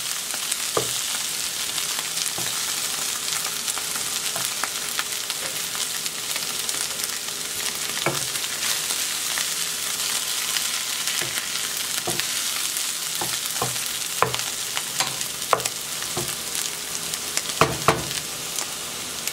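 Frozen mixed vegetables sizzling as they sauté in a pan, a steady hiss, with a utensil clicking against the pan now and then while they are stirred, most often near the end.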